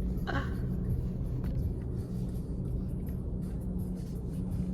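Car engine running at low speed, heard from inside the cabin as the car pulls into a parking space: a steady low rumble.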